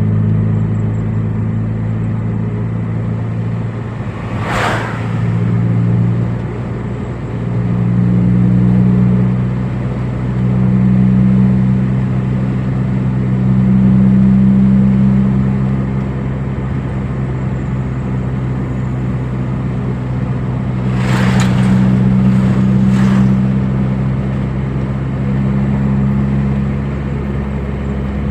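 Car engine running under load while driving, its drone swelling and easing as the throttle changes. A sharp knock sounds once about four seconds in and three more times near the three-quarter mark.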